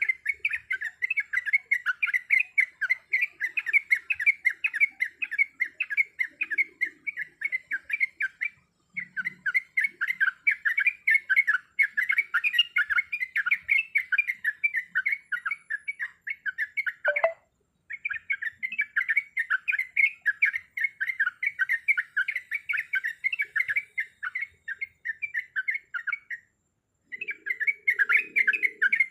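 Yellow-vented bulbul (trucukan) chattering: long runs of rapid, fast-repeated notes, broken by three brief pauses.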